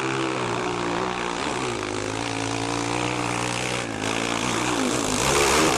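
An engine running at a steady pitch under a haze of noise, dipping briefly about four seconds in and rising again near the end.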